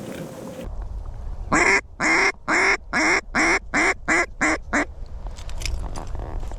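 Duck call blown in a quick mallard-style quacking series of about ten quacks, getting shorter and faster toward the end, to draw ducks into the decoys. Steady wind rumble runs underneath.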